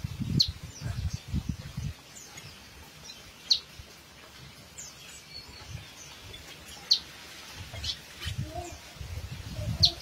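Wild birds chirping: four loud, sharp chirps, each a quick falling note, about every three seconds, with fainter chirps in between. A low rumbling noise runs under the first two seconds and comes back near the end.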